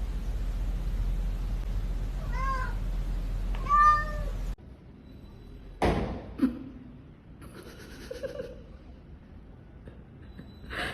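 A domestic cat meowing twice, short arched calls about two and a half and four seconds in, over a steady low hum. After the hum cuts off, a single sharp knock comes about six seconds in, followed by faint scattered sounds.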